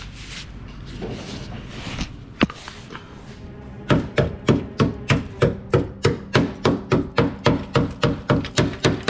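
A chipping hammer striking the rusted steel frame of a 2001 Chevrolet Suburban: one knock, then from about four seconds in a fast, even run of sharp blows, about four a second, knocking at the rust to test how sound the frame is.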